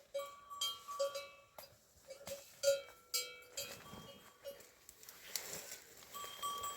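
Bells on livestock clanking irregularly, a few strikes a second, thinning out about four seconds in and ringing again near the end.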